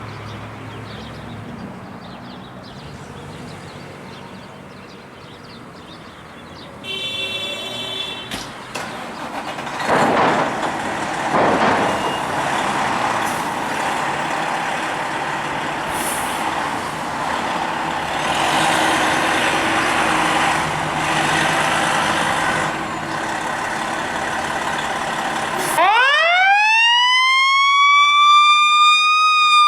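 Chicago fire engine pulling out on a call: its truck noise builds from about seven seconds in. Near the end the siren winds up in one long, rising wail.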